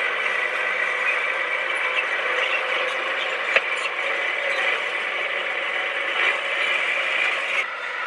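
Komatsu D20P crawler bulldozer working, a steady mechanical clatter with one sharp clank about three and a half seconds in.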